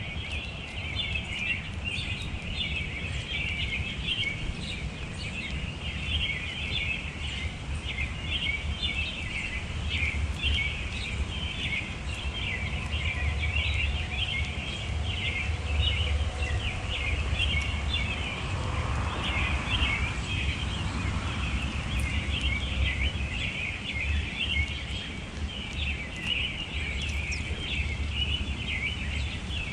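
Many small birds chirping and twittering continuously over a low, steady rumble.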